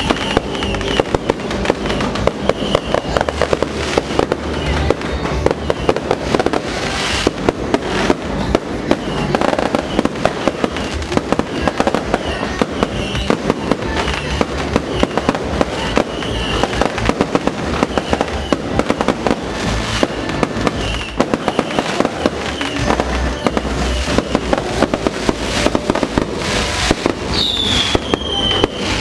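Fireworks going off in a continuous rapid crackle of bangs and pops, with a falling whistle about 27 seconds in.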